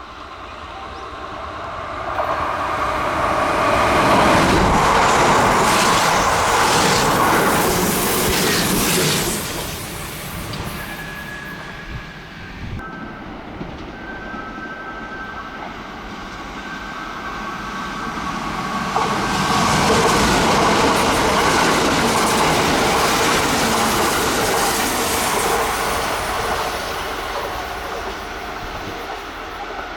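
Kintetsu electric trains passing on the line: loudest from about two to ten seconds in and again from about nineteen to twenty-seven seconds in, with a few steady high tones in the quieter stretch between.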